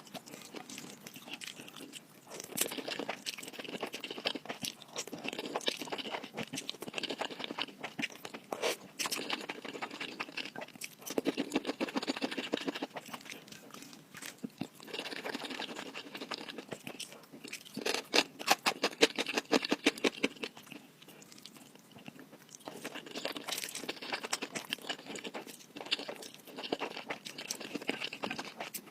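Close-miked eating: crunchy chewing and bites that come in bouts of a few seconds each, separated by short pauses.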